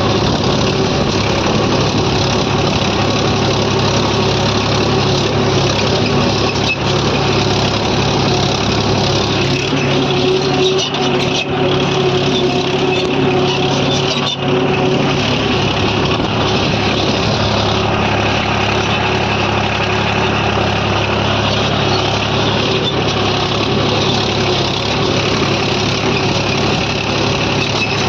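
Mahindra 265 DI tractor's three-cylinder diesel engine running steadily while it pulls a cultivator through the soil.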